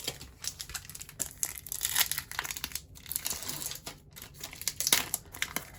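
Wrapper of a Leaf Draft Football trading card pack being torn open and crinkled by hand, a steady run of quick rustles and tearing crackles.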